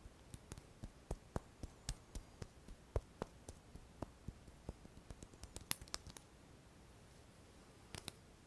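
ASMR hand sounds: a quick, uneven run of light taps and clicks, about three a second, that stops around six seconds in, then two close clicks near the end.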